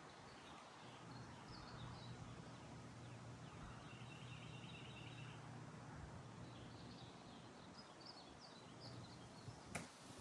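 Quiet outdoor ambience with faint birds chirping and a faint low hum; one sharp click near the end.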